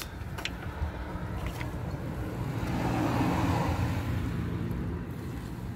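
A motor vehicle's engine running with a low, steady hum, swelling to its loudest about halfway through and then easing off, as a vehicle passes. Two faint light clicks come in the first two seconds.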